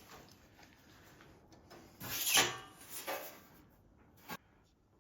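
Sheet-steel panel scraping and rubbing as it is worked in a bead roller: a longer scrape about two seconds in, a shorter one a second later, and a short sharp click near the end.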